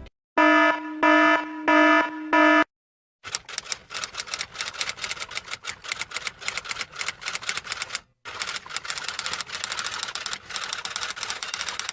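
Four short, evenly spaced electronic beeps, followed by a long run of rapid typing clicks, like keys on a typewriter or keyboard, that pauses briefly about eight seconds in.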